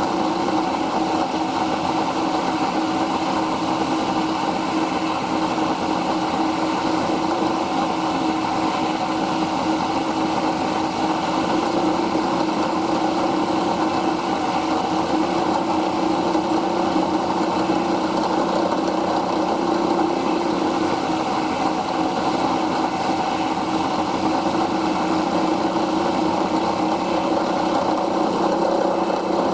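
Milling machine running steadily, milling the bottom of a channel in an aluminium part, with a constant mid-pitched hum under a broad hiss.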